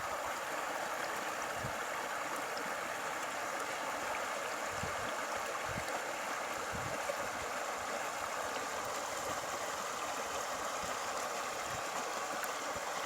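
Steady rushing of flowing water, with a few faint low thumps.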